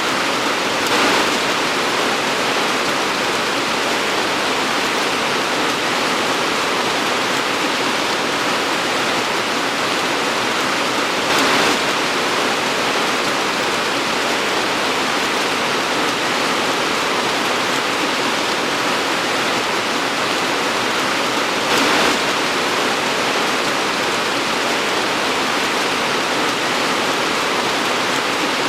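Torrential rain pouring steadily as a dense, even hiss, with three brief louder swells about ten seconds apart.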